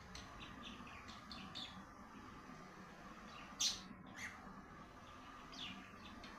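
Pet birds chirping: a run of short, falling chirps, with one louder, sharp call about three and a half seconds in and another near the end.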